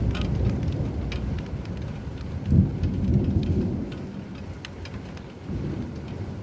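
Steady rain falling, with scattered drops ticking on a surface, under rumbling thunder that swells about two and a half seconds in and then fades.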